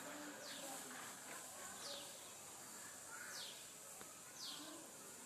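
A bird calling faintly outdoors: short downward-sliding whistled notes about once a second, over a steady high hiss.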